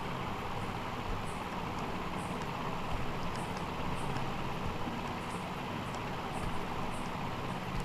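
Steady rushing noise of a running fan or blower, with a low hum and a few faint light ticks.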